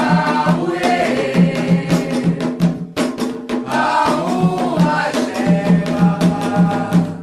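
Candomblé chant for Oxalá: a group sings in call-and-response over steady hand drumming and sharp percussive strikes.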